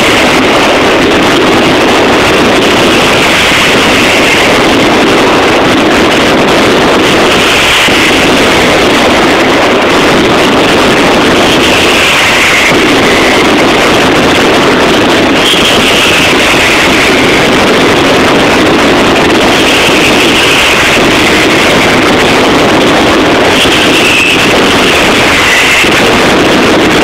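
Mascletà firework barrage: a dense, unbroken run of exploding firecrackers that blurs into one steady wall of noise on a phone microphone held near full level. Short falling whistles cut through it every few seconds.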